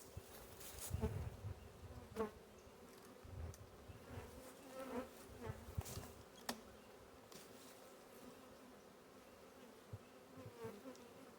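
Honey bee swarm buzzing, a faint steady hum, with a few sharp knocks and low rumbles over it.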